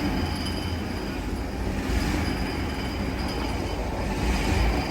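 Steady low rumble of running machinery, with a faint steady high whine above it.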